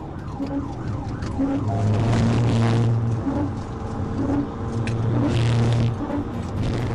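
Police patrol car in a high-speed pursuit, heard from its dashcam: engine and road drone swelling louder twice, with a police siren wailing.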